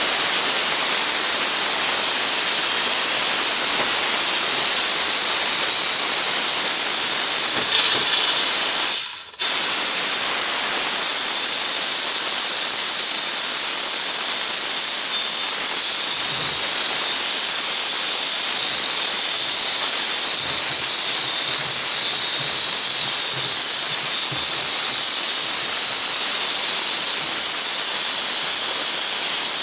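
Steam cleaner jetting steam with a steady, loud hiss. It cuts off briefly about nine seconds in, then starts again.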